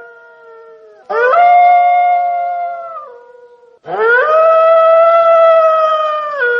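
Wolf howling: two long howls, the first starting about a second in and the second just before the four-second mark, each sliding up at the start, holding a steady pitch and dropping as it fades.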